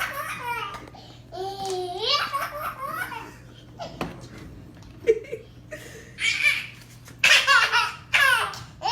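A young child laughing in repeated bursts with short pauses between them, loudest near the end.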